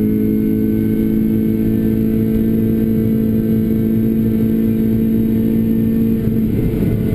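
Renault Clio RS engine with a Bastuck aftermarket exhaust running hard at steady, high revs, holding one even pitch. Near the end the note breaks up as the driver lifts or shifts.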